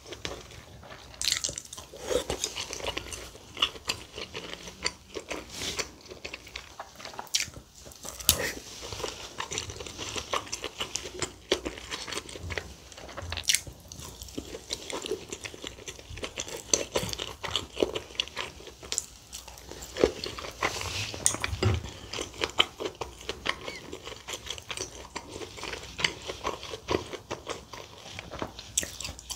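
Close-miked eating sounds: a person chewing and biting kimchi stew with rice, with wet mouth smacks and crunchy bites in an irregular run of short clicks.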